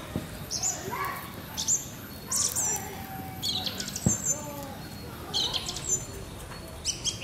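Small birds chirping: short, high calls with quick up-and-down slides, repeating every second or so, with one sharp click about four seconds in.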